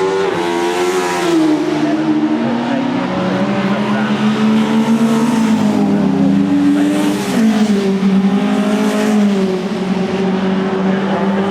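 Several racing saloon car engines at high revs, overlapping, their pitch rising and falling, with a sudden drop in pitch about seven seconds in.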